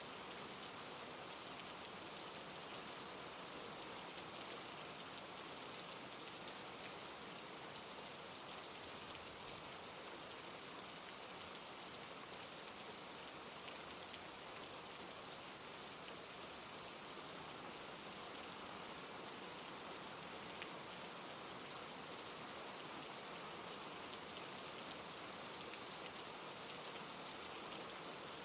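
Heavy rain pouring steadily, a continuous even hiss with faint scattered drop ticks.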